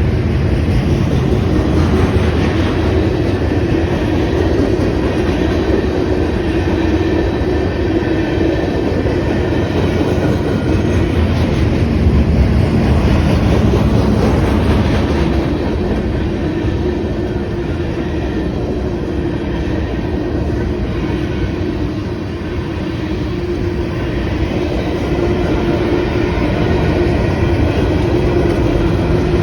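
Freight train rolling past at close range: a steady, loud rumble of steel wheels on rail, dipping slightly in level about two-thirds of the way through.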